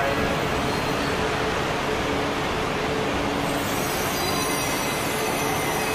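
E4 series MAX double-decker Shinkansen train moving slowly along the platform: a steady rolling rumble with faint high tones that come and go.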